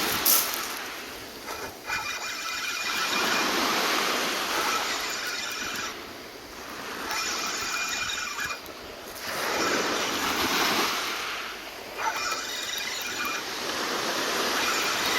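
Sea waves washing in and drawing back, the rush swelling and fading every three to four seconds.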